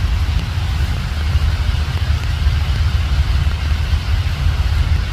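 Steady rain, an even hiss, over a continuous low rumble.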